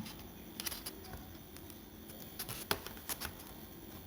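Faint, scattered clicks and taps of hand work with thermocol foam pieces and a hot glue gun while they are being stuck together, the sharpest click about two and a half seconds in.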